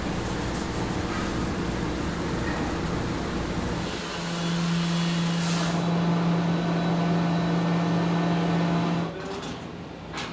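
A machine running with a steady hum, giving way about four seconds in to a louder, steady single-pitched drone that stops abruptly about nine seconds in.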